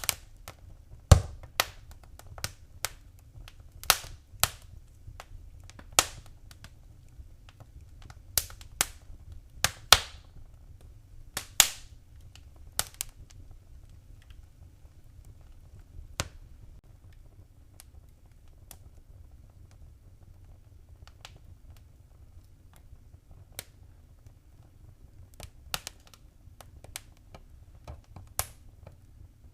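Wood fire crackling in a fireplace: sharp, irregular pops and snaps, many in the first dozen seconds and sparser after, over a low steady rumble.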